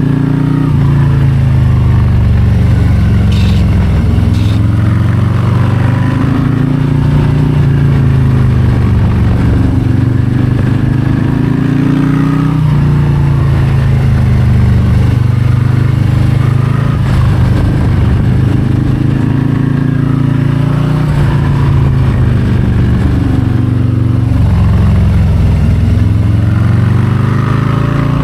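Harley-Davidson Low Rider ST's Milwaukee-Eight 117 V-twin running under way, its pitch climbing and falling again and again as the rider accelerates and backs off.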